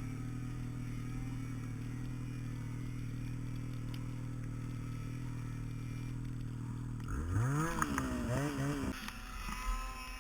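An engine running at a steady idle, then revving up and down about seven seconds in before settling again.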